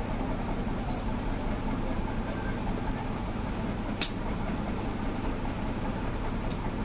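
Steady low rumble and hiss of background noise, with one sharp click about four seconds in and a few fainter ticks.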